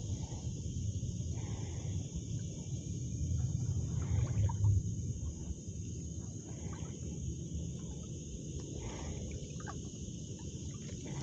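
Outdoor creekside ambience: a steady high drone of insects over a low, steady rush, with a few faint ticks.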